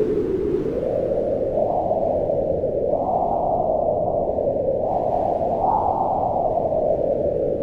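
Wind blowing steadily: a low, rushing whoosh that swells and eases, rising and falling gently in pitch every few seconds.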